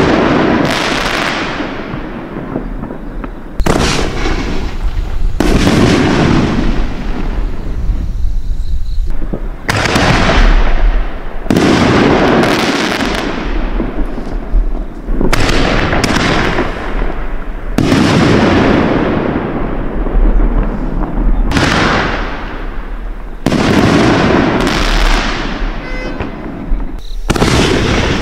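A Winda Chroma Chameleon 24-shot firework cake firing its aerial shells one after another. Each shot is a sharp bang, coming about every two seconds, that fades off before the next.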